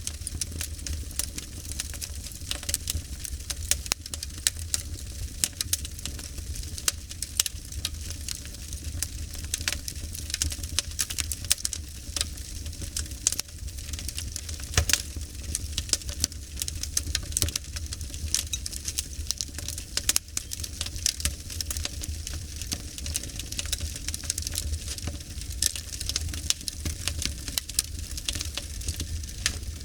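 Fire crackling: a dense, irregular stream of small sharp pops and snaps over a steady low rumble.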